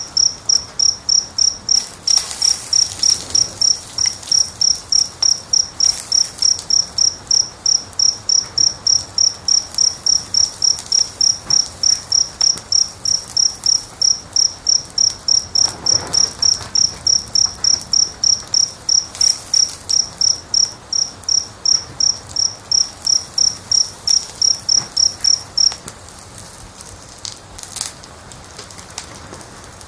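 A cricket chirping steadily, about three high chirps a second, over the soft crackle of a wood fire. The chirping stops about 26 seconds in, leaving the fire crackling with a few pops.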